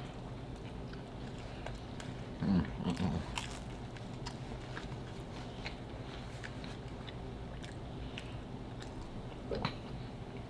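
Close-miked chewing of pizza, with soft wet mouth clicks and smacks throughout. A louder burst of mouth sound comes about two and a half seconds in, and a smaller one near the end, over a steady low hum.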